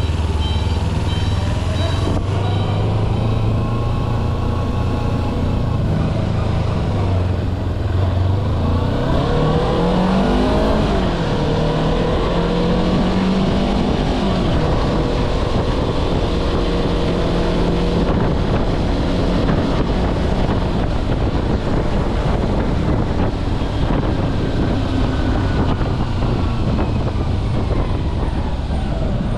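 Kawasaki Versys-X 250's parallel-twin engine running under way. Its pitch rises and falls several times as it is revved through the gears, over steady road and wind noise.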